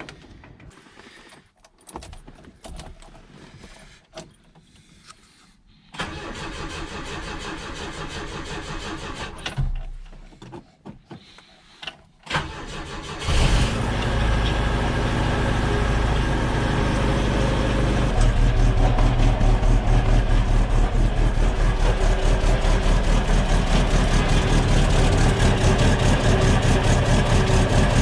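A 1969 Volvo 142S's four-cylinder engine being started: some clicks, a few seconds of cranking, then the engine catches about halfway through and runs with a steady pulsing exhaust, getting louder about two-thirds of the way in. The exhaust leak is patched with a beer can and exhaust sealer.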